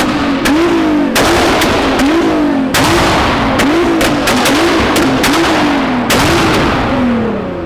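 A sports car engine revved in quick repeated blips, about one and a half a second, with sharp exhaust cracks and pops between them. The last rev falls away near the end.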